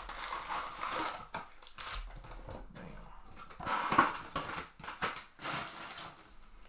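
Trading-card packs and cards being handled: irregular crinkling and rustling of pack wrappers and card stock, with a few sharp clicks and flicks.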